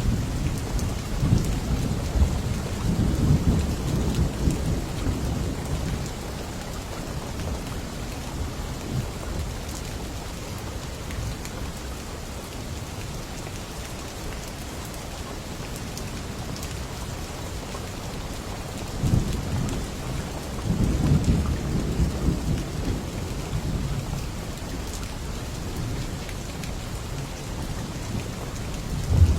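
Steady rain falling, with rolling thunder: a low rumble through the first few seconds and another about two-thirds of the way through.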